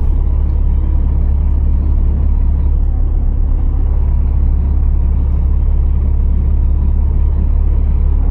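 Scania R480 truck's engine giving a steady, loud, low rumble that holds even throughout.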